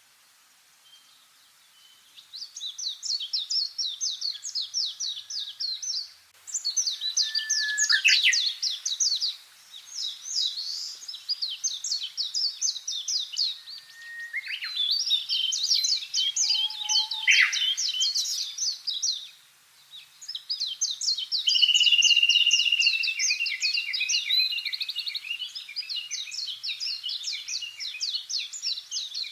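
Songbirds singing in long runs of rapid, high chirping notes, each run lasting several seconds, starting about two seconds in. The runs overlap in places, with a steadier lower whistle under the trills near the end.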